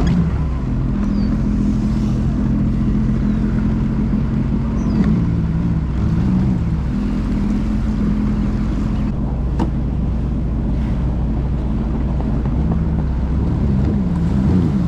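Jet ski engine running under way, its note rising and falling several times as the throttle changes.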